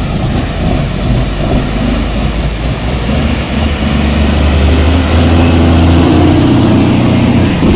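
Heavy truck engine running, getting louder and deeper from about halfway through.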